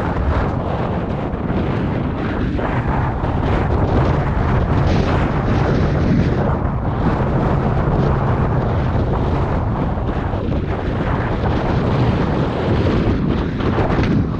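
Strong mountain wind buffeting the microphone: a loud, steady rumbling roar that rises and falls with the gusts.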